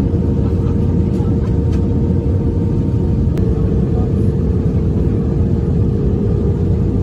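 Steady rumble of an Airbus A319 airliner's jet engines and airflow in flight, with a constant hum running through it.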